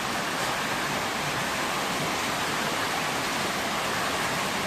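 Heavy rain pouring down, a steady even hiss with no breaks.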